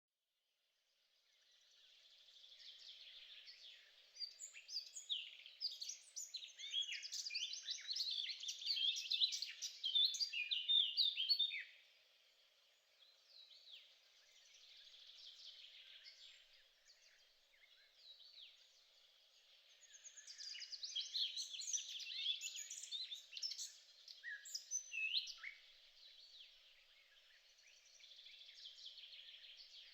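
Many small songbirds chirping and twittering at once, in a dense chorus that swells in two bouts: the first about four to twelve seconds in, the second around twenty seconds.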